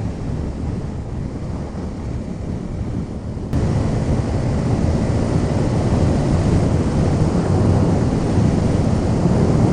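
Wind buffeting a helmet microphone over the low running of a KTM Duke 390's single-cylinder engine while riding. About a third of the way through it cuts abruptly to a louder rush of the same kind.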